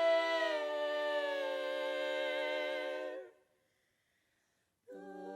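Women's barbershop quartet singing a cappella, holding a close-harmony chord at the end of a phrase, with the top voice sliding down in the first second or so. The chord cuts off a little past three seconds in, and after about a second and a half of silence the quartet comes back in on a new chord.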